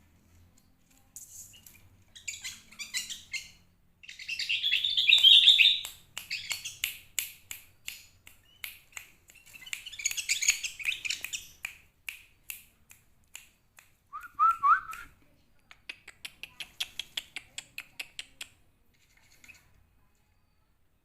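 Sooty-headed bulbul (kutilang) chirping and chattering in quick runs of sharp notes with short pauses between them, and one lower whistled phrase about two-thirds of the way through.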